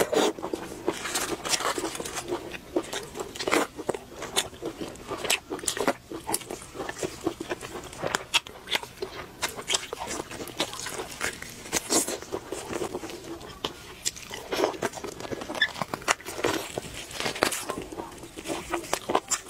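Close-miked eating sounds: a person biting into and chewing spiced sheep's head, with many irregular crunches and mouth clicks.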